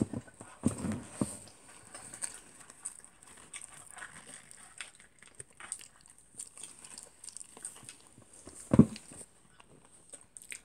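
Close-up eating noises: scattered chewing and mouth clicks with small rustles and taps, and one louder thump near the end. A faint steady high tone runs underneath.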